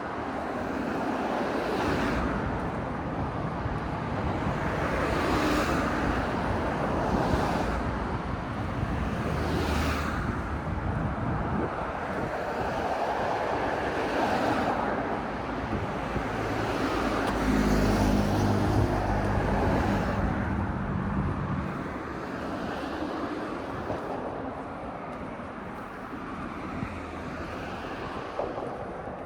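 Road traffic: cars passing on a street with a steady tyre and road noise. Around the middle one vehicle passes close, its engine hum the loudest part.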